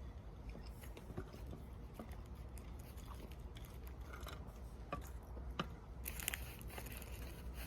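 Faint handling noises: scattered small clicks and taps, then a stretch of crinkling rustle about six seconds in.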